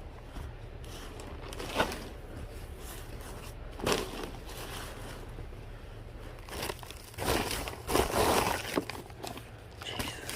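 Packaging crinkling as items are handled: a couple of brief rustles, then a longer stretch of crinkling near the end.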